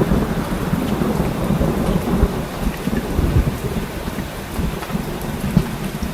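Steady rain falling, with a low rolling rumble of thunder underneath that slowly fades.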